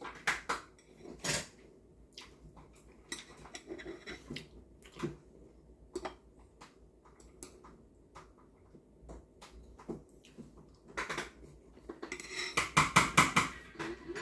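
Eating utensils clinking and tapping against bowls and dishes, scattered light clicks with a quick run of louder clinks near the end.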